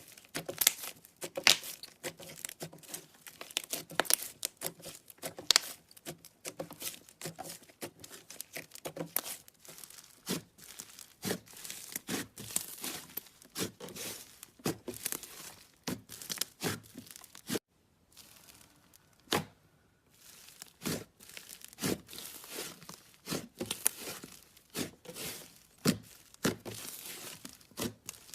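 Slime being squeezed and worked by hand, a dense run of sticky pops and crackles, with a short lull about eighteen seconds in.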